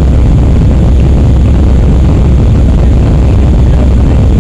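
Airbus A319 jet engines and airflow heard inside the passenger cabin during take-off and climb: a steady, loud low rumble with a thinner hiss above it.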